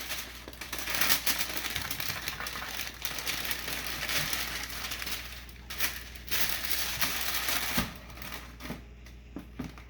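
Tissue paper crinkling and rustling as it is pulled away from a pair of sneakers in their box, with a few separate taps near the end.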